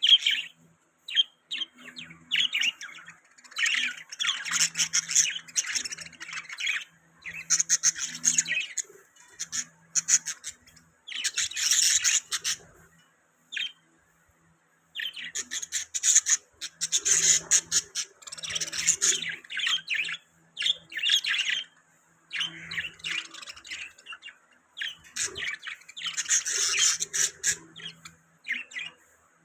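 Budgerigars chirping and chattering in bouts of rapid warbling calls with sharper squawks mixed in, broken by short pauses.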